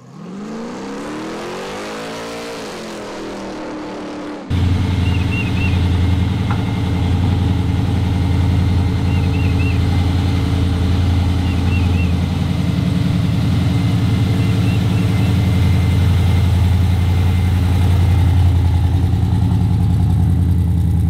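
A short engine rev rises and then falls in pitch. About four and a half seconds in, the 1971 Chevrolet Impala's twin-turbo 427 V8 starts in loud and runs steadily at low revs to the end.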